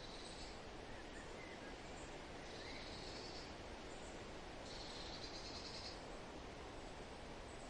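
Forest ambience: a steady hiss of wind through leaves with birds calling over it. There are three high buzzy trills of about a second each, at the start, about two and a half seconds in and about five seconds in, with a few faint short chirps between them.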